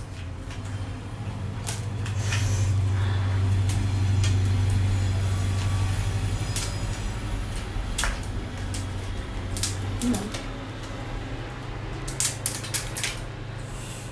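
Scattered sharp clicks and cracks of crab and shrimp shells being broken apart while eating, clustered near the middle and again near the end, over a steady low hum that is louder in the first half.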